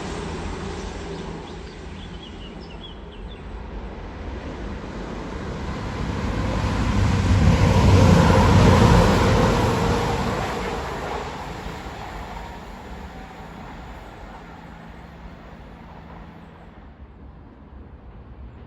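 A diesel train passing. The noise of its engine and wheels builds to its loudest about eight seconds in, then fades away.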